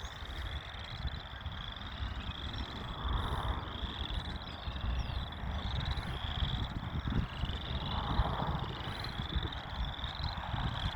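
Outdoor chorus of small calling animals: short, high trills repeating one after another without pause, over a steady low rumble.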